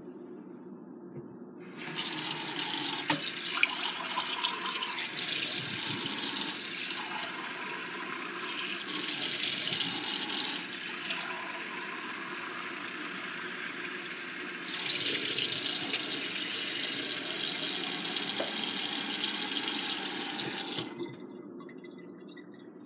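Water running from a tap into a sink. It starts about two seconds in, and its flow and splash change strength several times: louder, then softer, then louder again. It stops a couple of seconds before the end.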